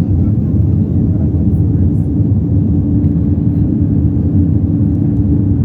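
Steady low roar of an airliner's engines and rushing air heard inside the passenger cabin during the climb after takeoff, with a steady hum that grows stronger a little over two seconds in.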